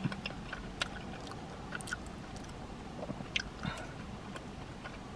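A person chewing food with the mouth closed, close to the microphone: soft irregular wet clicks and smacks of the mouth.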